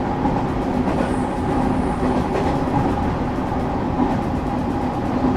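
Steady running noise inside a moving train's passenger car: wheels rumbling on the rails under a steady low hum.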